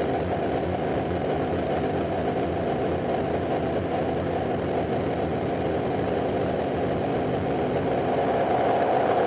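Harsh noise / power electronics recording: a dense, steady wall of distorted noise, heaviest in the low and middle range, with no beat or melody. It grows slightly louder near the end.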